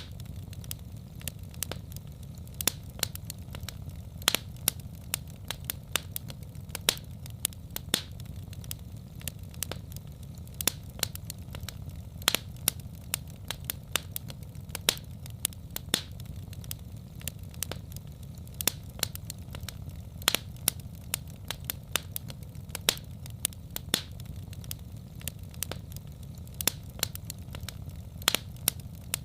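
Wood fire crackling in a fireplace: irregular sharp snaps and pops, several a second, with some louder cracks, over a steady low rumble.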